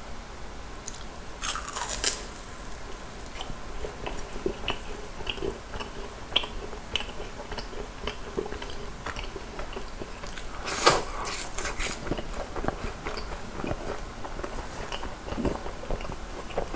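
Biting into and chewing a crispy fried cream cheese ball: crunching of the breaded shell begins about a second and a half in, with steady crunchy chewing after, and the loudest burst of crunching a little past the middle.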